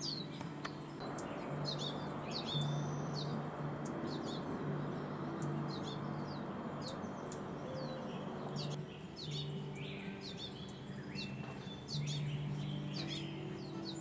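Small wild birds chirping over and over, with short, quick falling notes, over soft background music of low sustained notes. A soft rushing noise sits under them for the first two-thirds.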